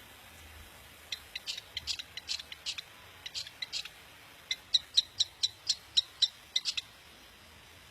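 Long-tailed shrike (cendet) singing: short, high chirping notes, scattered at first, then a quick even run of about four notes a second that stops a second before the end.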